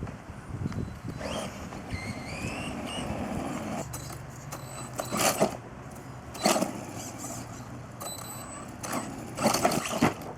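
RC monster truck with a brushless motor on a 3-cell LiPo being driven: a rising electric whine about two seconds in as it speeds up, then several loud, short bursts of noise later on.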